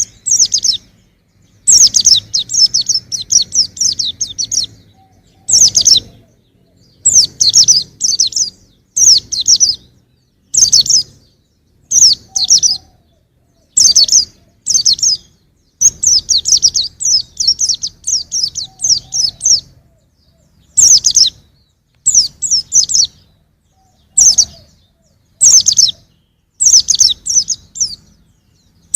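A young white-eye (pleci) singing: bursts of rapid, high twittering notes, each phrase lasting about half a second to two seconds, repeated with short pauses between them.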